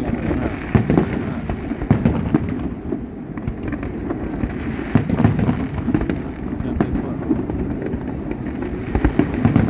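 Fireworks display going off: a dense, continuous crackle of small pops with heavier bangs every second or so.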